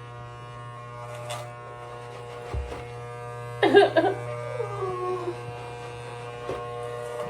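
Electric hair clippers buzzing steadily. About three and a half seconds in, a child cries out briefly, the cry falling in pitch.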